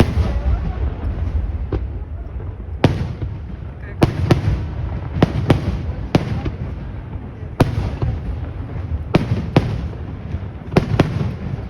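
Fireworks display: about a dozen sharp bangs of shells bursting at irregular intervals, some in quick pairs, over a steady low rumble.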